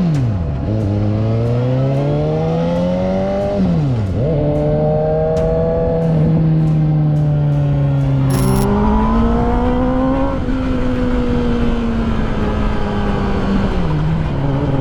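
Motorcycle engine running under way. Its pitch climbs and then drops sharply at gear changes about half a second and four seconds in, holds fairly steady through the middle, and falls away near the end as the bike slows.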